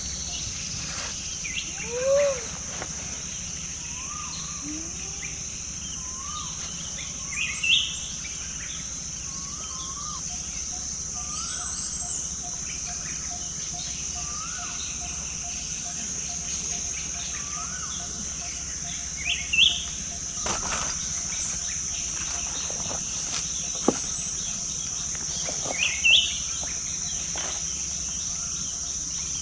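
Forest ambience: a steady high-pitched insect drone under several birds calling, with short rising chirps repeated every second or two and a handful of louder calls. A fine rapid trill runs underneath through the middle of the stretch.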